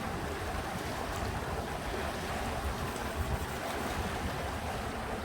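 River water flowing steadily, a continuous rushing with a low rumble and faint splashes.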